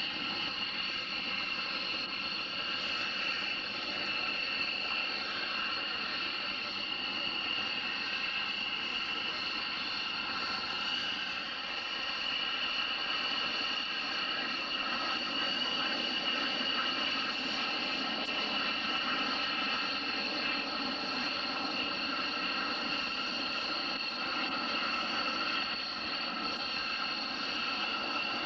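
Aircraft turbine engine running steadily with a high-pitched whine of several held tones, holding the same pitch and loudness throughout.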